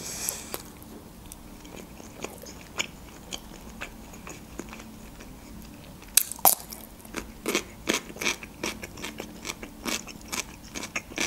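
Close-miked eating sounds: soft chewing at first, then about six seconds in a crisp bite into a fresh cucumber followed by crunchy chewing, many sharp crackles in quick succession.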